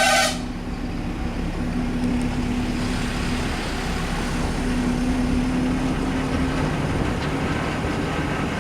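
Lorry's diesel engine running steadily under way, heard from on board the truck. A short horn blast sounds right at the start.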